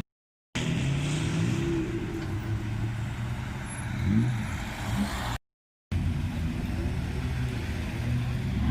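Car engines running at low speed with a couple of short blips of revs; the sound drops out completely twice, briefly.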